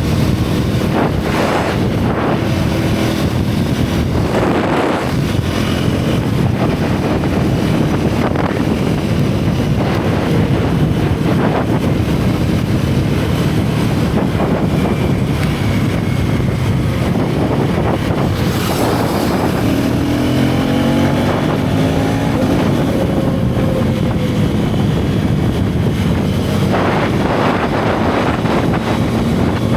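Single-cylinder motorcycle engine and exhaust running at speed, with steady wind rushing over the helmet or bike camera's microphone. The revs rise and fall through the ride, climbing audibly about two-thirds of the way through.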